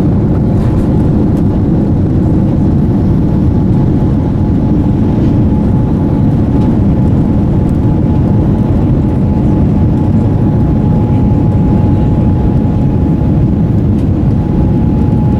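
Steady jet engine and airflow noise heard inside the cabin of a Boeing 787-9 with Rolls-Royce Trent 1000 engines, loud and unbroken, with a thin steady whine above it.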